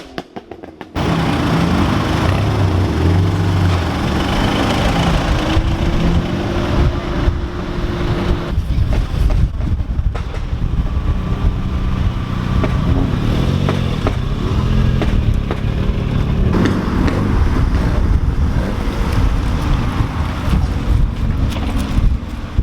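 Car engine and exhaust running steadily, after a brief quiet gap in the first second.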